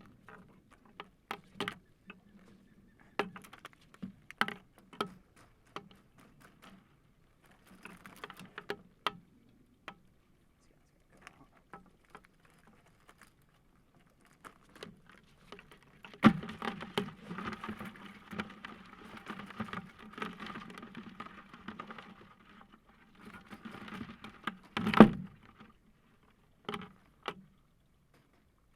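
Wire crab trap with blue crabs inside being handled and shaken: scattered clicks and knocks, several seconds of continuous rattling midway through, and one louder knock near the end.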